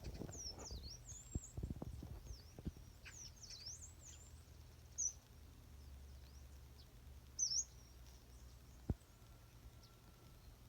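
Wild birds chirping: a series of short, high, downward-sweeping calls with gaps between them, over faint low knocks and one sharp click near the end.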